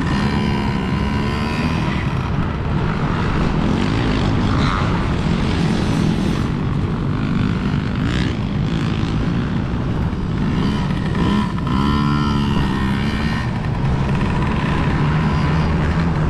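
Several kids' dirt bike engines buzzing around a motocross track, their pitch rising and falling as the riders throttle up and ease off between corners and jumps.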